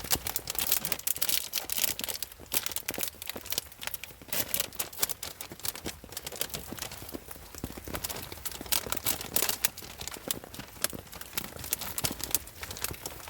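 Plastic packaging being handled and crinkled, with irregular crackles and rustles throughout.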